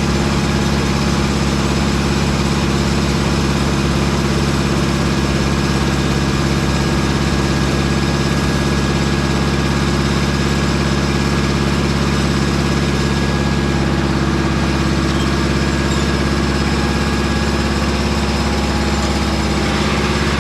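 Engine of a Mobile Dimension circular-blade sawmill running steadily at an even, unchanging level.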